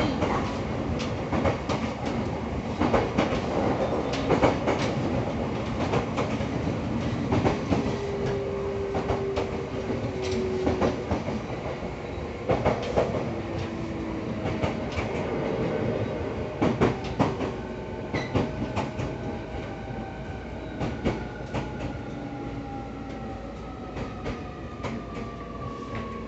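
JR EV-E301 series battery-electric train with a Mitsubishi IGBT inverter, heard from inside the car: a steady running rumble with repeated clacks over the rail joints. In the last third a whine from the inverter and traction motors falls steadily in pitch as the train slows.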